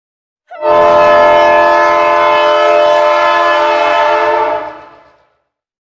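Train horn sounding one long blast: a chord of several tones held steady for about four seconds, then fading out.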